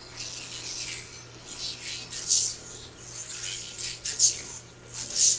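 A string of short rasping, hissing scrapes, each under a second, some louder than others.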